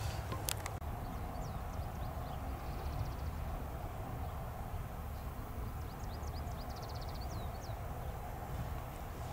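Small birds chirping and trilling in short bursts, over a steady low wind rumble on the microphone, with a sharp click about half a second in.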